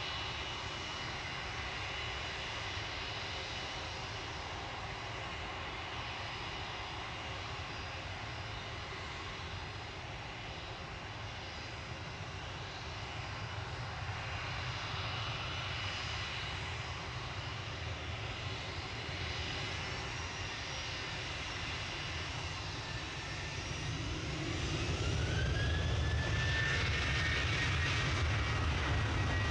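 Airliner engines running with a steady whine and low rumble; from about 20 seconds in the pitch rises and about 24 seconds in they grow louder as the engines spool up.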